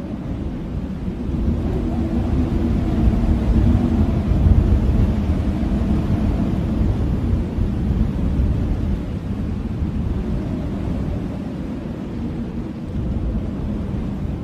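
Blizzard wind blowing hard, a deep, steady rush that swells a few seconds in and then eases slightly.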